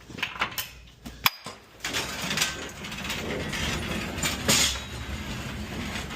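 Metal delivery carts being moved: a few clicks and one sharp clack about a second in, then the steady rattle of a cart rolling on its casters.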